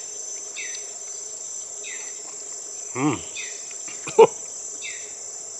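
Steady high-pitched insect chorus, with a short falling call repeating about every second and a half. A brief low sound about three seconds in and a sharp clink just after four seconds.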